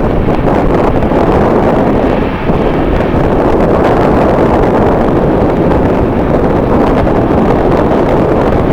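Strong wind buffeting the microphone: a loud, steady, rumbling roar that holds through without a break.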